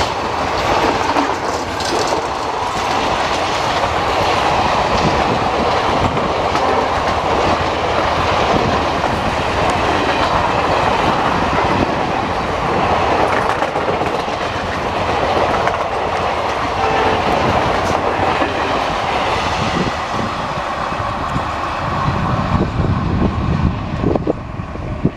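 Passenger train coaches rolling past at speed: a steady rush of wheels on rail with clickety-clack over the rail joints. A deeper rumble comes in near the end.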